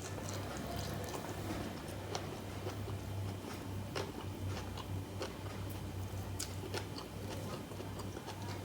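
Close-up chewing and mouth sounds of a person eating, with scattered sharp clicks, over a steady low hum.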